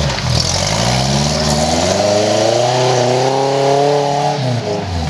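Off-road buggy engine revving: the pitch climbs steadily for about four seconds, then drops back sharply near the end.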